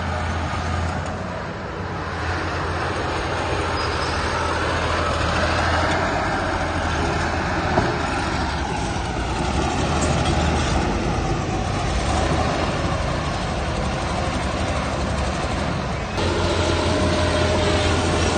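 Heavy diesel machinery running steadily with a deep hum, with a single sharp click about eight seconds in; the sound changes abruptly about sixteen seconds in, when a steadier whine joins it.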